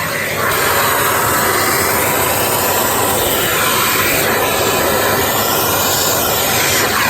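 Philips PowerPro Compact bagless canister vacuum cleaner running, drawing air through its angled crevice nozzle. The steady rushing whine gets louder about half a second in, then shifts in tone as the nozzle moves.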